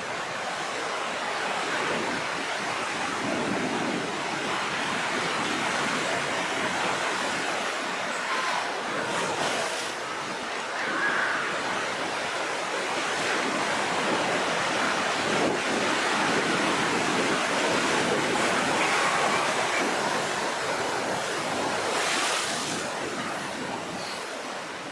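Rough sea surf: waves breaking and washing in a steady roar of water, with wind. Twice, about 9 seconds in and again near the end, a wave crashes and the hiss briefly swells.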